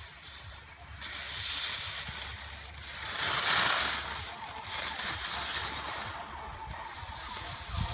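Ski edges scraping and hissing on hard-packed snow as a young racer carves turns, in several swells, the loudest about three to four seconds in, over a low rumble of wind on the microphone.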